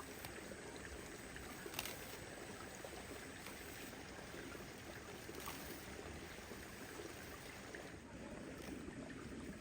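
Moving water: a steady, faint wash with a few light clicks.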